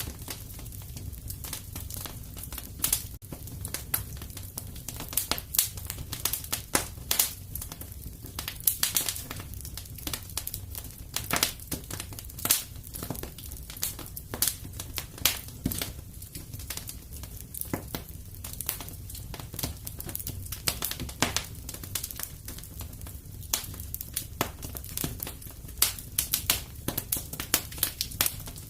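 Fire in a fireplace crackling: many irregular sharp pops and snaps over a steady low rumble.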